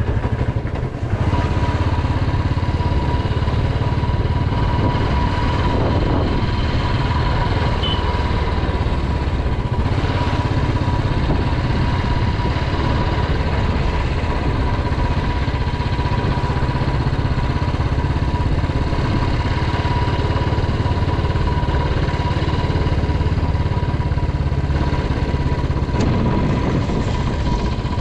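Royal Enfield Classic 350's single-cylinder four-stroke engine running steadily as the motorcycle rides slowly at about 13 mph.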